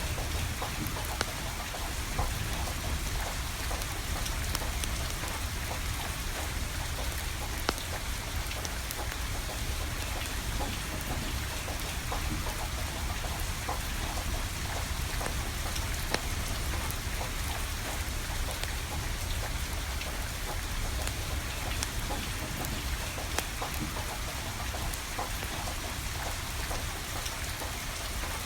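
Steady rain falling, with sharp crackles and pops from burning firewood scattered irregularly through it.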